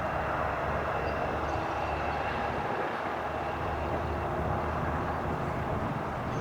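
Jet airliner engines running, a steady roar with a faint high whine.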